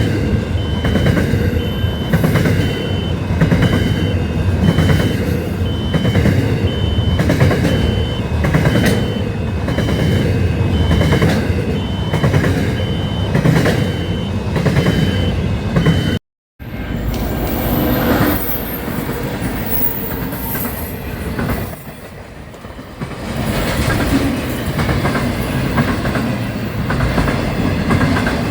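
Train passing close by, its wheels clacking steadily over rail joints with a heavy rumble, while a high tone pulses on and off. After a sudden cut, another train rumbles past.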